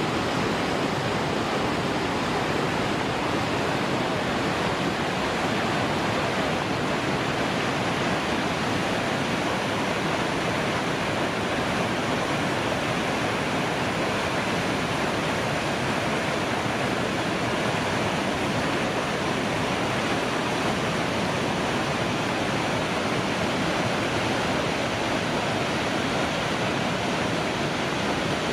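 White-water rapids of the Nile rushing, a steady, unbroken wash of water noise.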